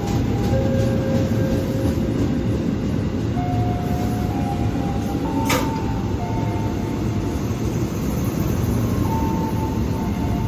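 Electric commuter train running with a steady rumble, and several steady whining tones that step up and down in pitch. One sharp click comes about five and a half seconds in.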